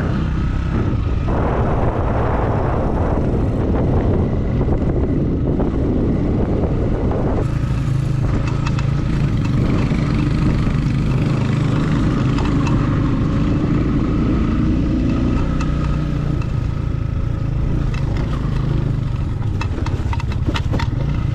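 Motorcycle engine running steadily under way, with wind and road noise. A cluster of sharp clicks comes near the end.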